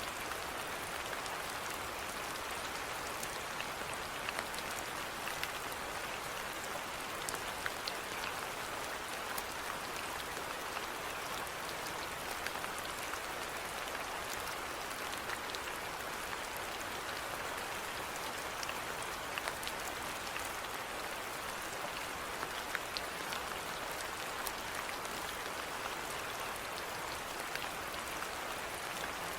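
Steady rainfall, an even hiss with many small scattered drop ticks.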